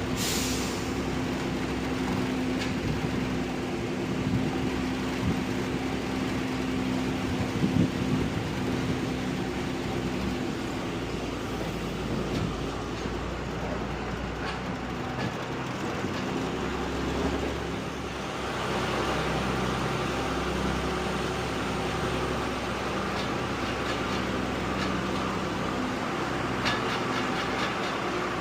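Truck engine running with road noise while driving, a steady low drone that grows louder and rougher about two-thirds of the way through.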